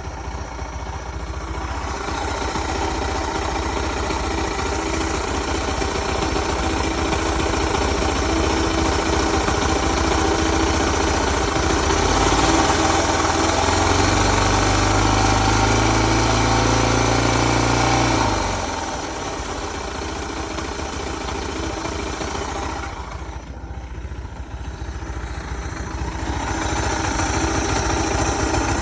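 Suzuki DR650 SE's single-cylinder four-stroke engine running at idle, revved up and held at higher revs for about six seconds starting roughly twelve seconds in, then dropping back to idle. It runs quieter about three quarters of the way through and rises again near the end.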